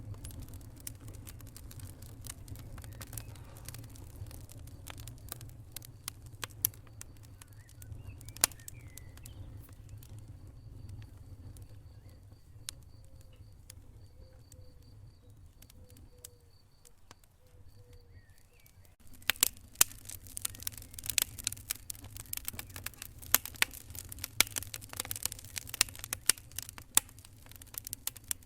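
Wood fire crackling and popping over a low steady rumble. The pops thin out and the fire goes quieter through the middle, then dense, louder crackling starts abruptly about two-thirds of the way in.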